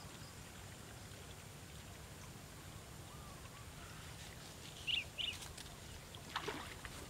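Quiet marsh ambience with a low steady rumble. About five seconds in come two short, high, falling chirps from a bird, and a second later a brief rougher call.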